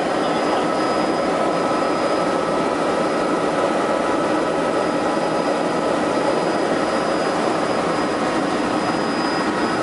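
Helicopter running steadily in flight: an even, loud rush of turbine and rotor noise with a thin high whine over it.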